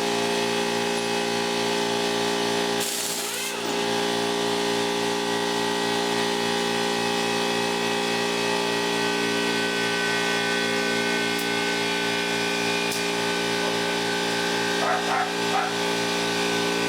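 A steady mechanical hum with an even low pulsing, like a running motor, with a brief dip about three seconds in. A dog whines a couple of times near the end.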